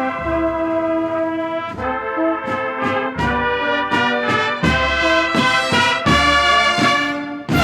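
Brass band music, trumpets and trombones playing sustained chords over a steady beat, in the manner of a Holy Week processional march.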